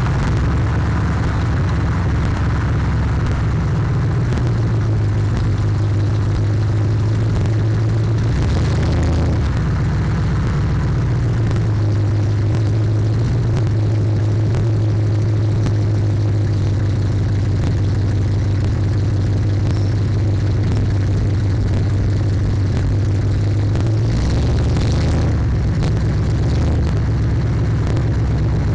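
Loud car engine and exhaust heard from inside the cabin while driving: a steady low drone, distorted on the microphone. The engine note drops briefly about a third of the way in and again near the end, as with gear changes or easing off the throttle.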